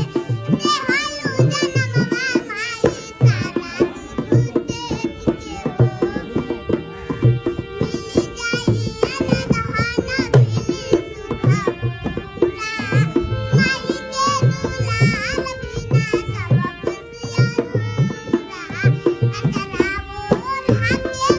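A high, girl's voice singing a folk song in phrases over a steady tabla-style hand-drum beat and held accompanying notes.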